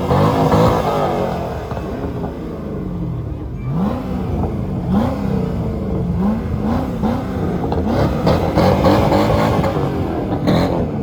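Car engine being revved in a string of quick blips, its pitch jumping up and falling back a little under twice a second through the middle of the clip, with steady running before and after.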